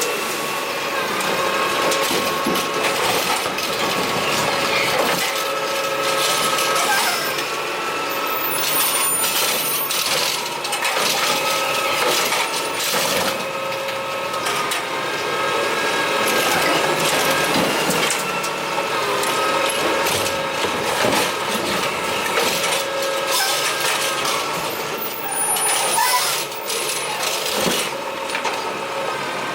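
Curbtender automated side-loader garbage truck at work: its engine and hydraulic arm running steadily, with repeated clatter and knocks as carts are lifted and dumped.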